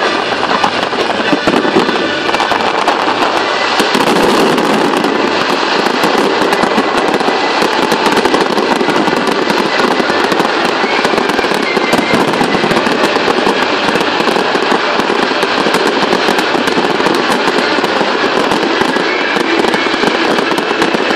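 A large fireworks display: many shells bursting at once in a dense, continuous crackle, with no break from start to finish.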